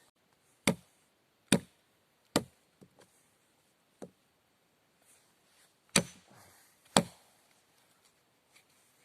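An axe chopping wood: five sharp, solid strikes, three about a second apart, then a pause and two more, with a few lighter knocks in between.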